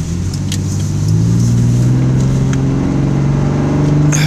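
Car engine accelerating, heard from inside the cabin, its pitch climbing from about a second in as the car picks up speed.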